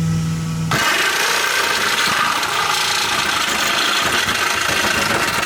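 Corded electric power tool cutting into a car's steel exhaust pipe. A steady motor hum gives way, under a second in, to a harsh, continuous grinding and rasping as the tool bites into the metal.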